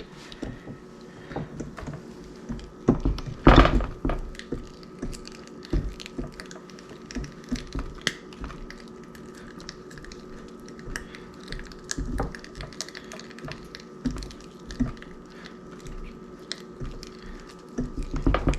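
Small scattered clicks and knocks of hands working a sausage stuffer and casing on a kitchen counter, with one louder thump about three and a half seconds in, over a faint steady hum.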